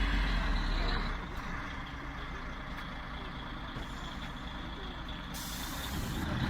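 Heavy vehicle's engine running with a steady low rumble, dropping in level after about a second.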